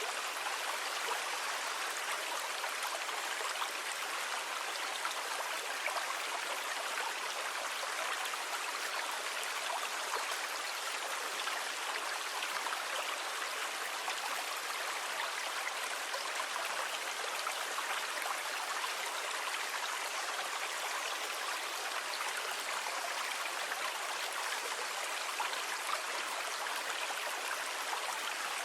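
Sea water washing in a steady, even rush, with no separate waves rising and falling.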